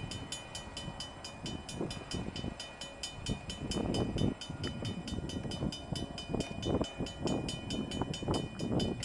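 CSX intermodal freight train rolling past, its cars rumbling with irregular clunks. Above it, an even, rapid metallic ringing at about four to five strikes a second stops near the end.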